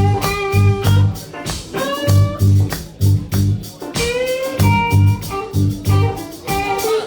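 Band playing a blues-rock cover: guitar over a heavy bass and drum beat, with a lead line that bends in pitch.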